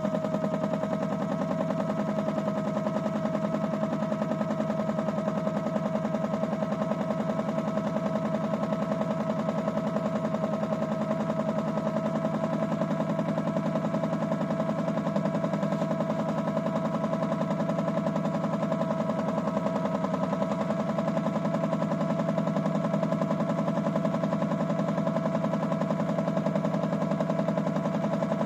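Small battery motor of a Miele W1 toy washing machine running steadily mid-wash, with a constant high whine over a fast, even rattle from the drum drive.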